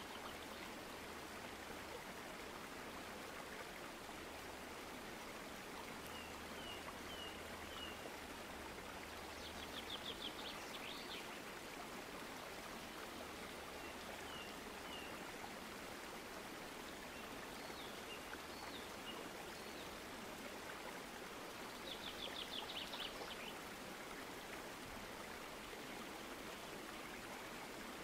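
Small birds chirping over a steady hiss: runs of short, high, falling chirps, and two rapid trills, about ten and twenty-two seconds in.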